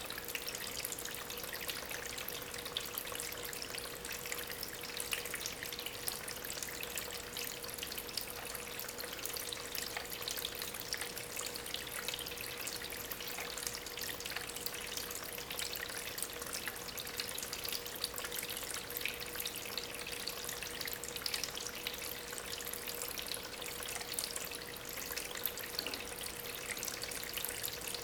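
Water from a small homemade waterfall, pumped by a small aquarium pump, trickling and splashing steadily over stones, with many small drip-like splashes and a steady faint hum underneath.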